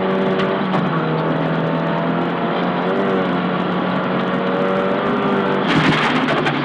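Nissan Silvia S15 rally car's engine pulling at near-constant revs, heard from inside the car, with a brief dip and recovery about halfway through. Near the end a louder rush of noise joins it.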